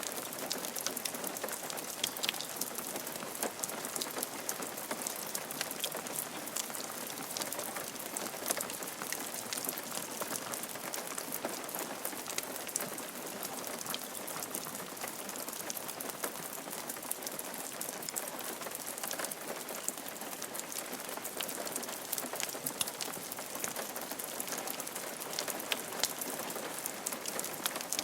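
Steady rain falling on a roof, a constant hiss with many fine individual drop ticks throughout.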